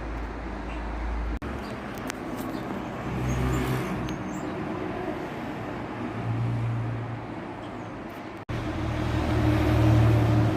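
Road traffic: vehicle engines running as vehicles drive by, cut off abruptly twice, about a second and a half in and after about eight seconds, and louder after the second cut.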